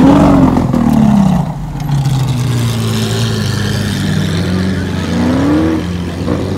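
Lamborghini Aventador SVJ's V12 engine revving as the car pulls away at low speed. The engine note rises and falls near the start, holds a steadier low drone, then climbs again near the end.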